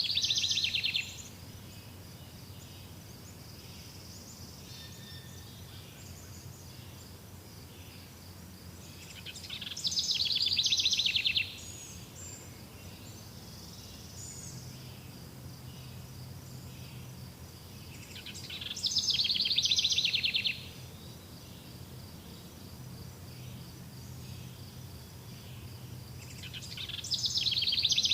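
A songbird repeating a loud, rapid trilled phrase about every nine seconds, four times in all; each phrase swells for about two seconds and then stops abruptly. A faint, steady high-pitched background runs between the phrases.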